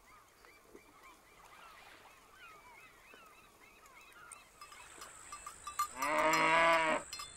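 A cow moos once, for about a second, near the end, with the bell on its collar clanking around the call. Faint, high chirping calls are heard before it.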